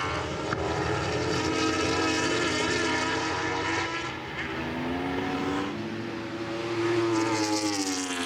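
Racing sportbike engines at high revs, their pitch sliding down and climbing back up as the riders brake and change gear, with more than one bike audible at once.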